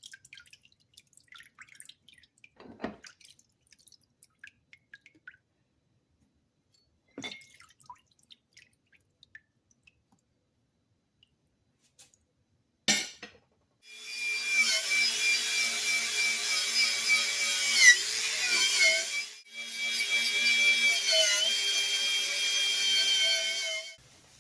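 A small electric power tool's motor runs in two stretches of about five seconds each, its whine dipping in pitch briefly as it is pressed against the work. Before it there are scattered light clicks and knocks, then a sharp click.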